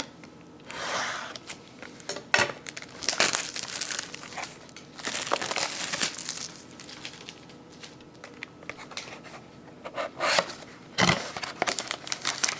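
Packaging on a sealed box of baseball cards crinkling and tearing as it is opened, in irregular bursts with short pauses and a few small clicks.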